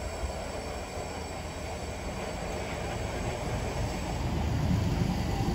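Southeastern Networker electric multiple unit pulling into the platform, a low rumble of wheels on the rails that grows louder as the train draws close.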